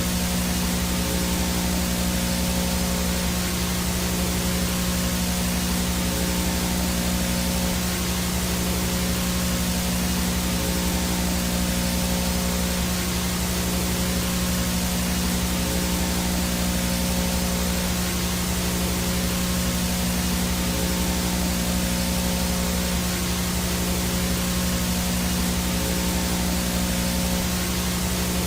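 VHS no-signal static: a steady hiss of white noise with a low, steady buzzing hum underneath, unchanging throughout.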